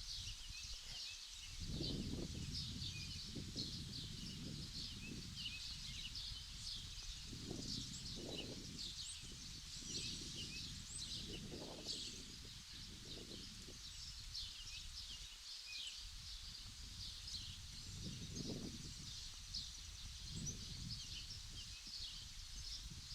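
Many small birds chirping and twittering high-pitched without pause, with irregular low gusts of wind rumbling on the microphone.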